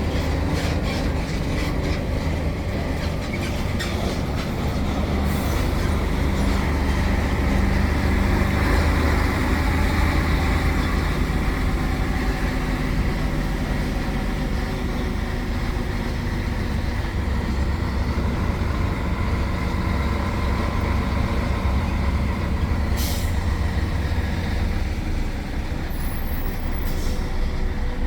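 Heavy container truck's diesel engine running steadily while driving, a deep drone with road noise. A few brief sharp high-pitched sounds cut through it about five seconds in and twice near the end.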